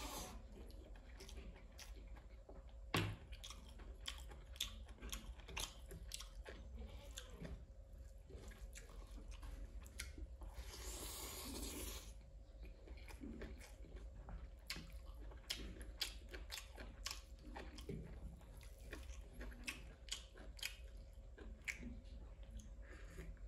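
Close-miked mouth sounds of a person chewing a mouthful of rice and curry eaten by hand: a steady run of small wet chewing clicks and smacks, with one sharp click about three seconds in and a longer breathy rush around eleven seconds in.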